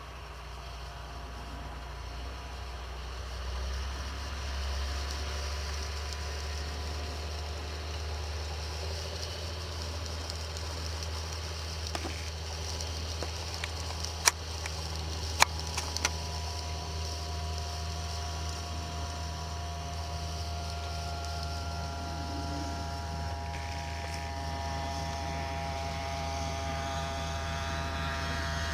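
A John Deere 8530 tractor's diesel engine runs steadily under load while pulling a stubble cultivator, with a deep low hum and a whining note that grows stronger near the end. Three sharp knocks come a little past halfway.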